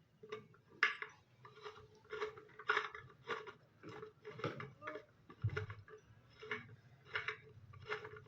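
A string of light clicks or clinks, about a dozen, spaced roughly every half second to a second, each with a brief ring at one pitch.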